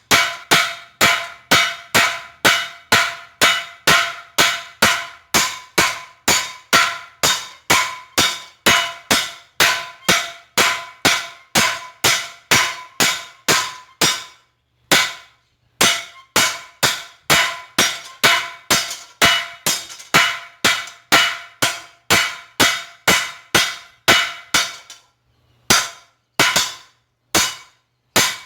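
Steady hammer blows, about two a second, on a hot steel chainsaw guide bar lying on an anvil, each strike with a short metallic ring, as the bar is drawn out thinner; the hammering stops briefly about halfway through and again near the end.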